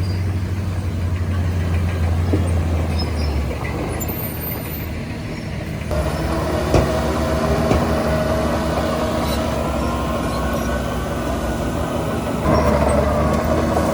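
Diesel engines of heavy earthmoving machinery running steadily. About six seconds in, a higher whine joins the drone, and near the end the engine grows louder.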